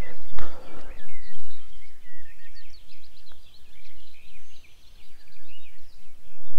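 Several birds chirping and singing in short, quick, varied calls, over an uneven low rumble.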